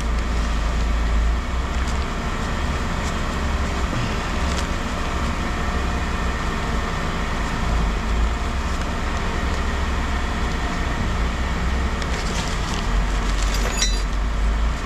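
A vehicle engine running steadily at idle, with a deep, even rumble. A few light metallic clinks come near the end.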